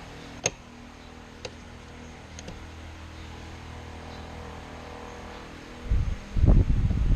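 A steady low mechanical hum with three sharp clicks in the first few seconds, then loud, irregular low rumbling near the end.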